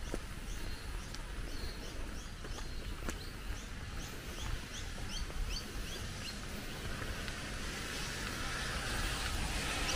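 A small bird calling a quick series of short high chirps, two to three a second, which fade out after about six seconds. Under it runs a steady rush of flowing water that grows louder toward the end.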